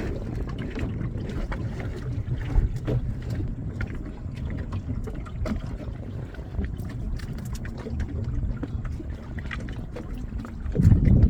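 Small fishing boat at sea: a steady low engine hum with wind and water rumble and scattered light knocks, growing louder near the end.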